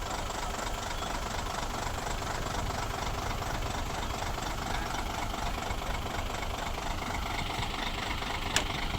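Heavy diesel engine running steadily at idle, with one sharp click near the end.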